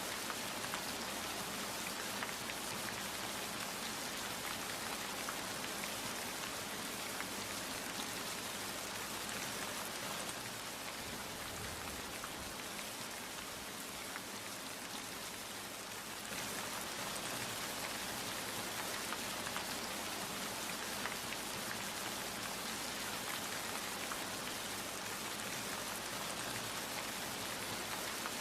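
Steady rain falling, a dense hiss with many individual drops ticking on a surface. It eases a little around the middle for a few seconds, then picks back up.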